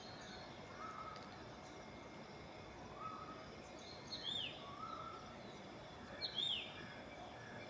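Several birds calling in the early morning over a faint steady background hiss: a short low call repeating about every two seconds, and twice a higher call that slides downward in pitch.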